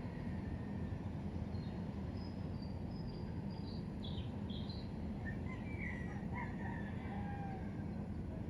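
Faint bird calls over a steady low background rumble: a few short high calls about two seconds in, then lower drawn-out calls near the end.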